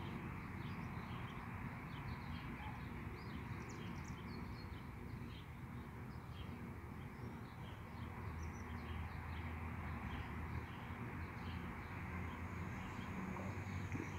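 Small birds chirping in short, repeated calls over a steady low background hum, with a thin, high, steady whine coming in near the end.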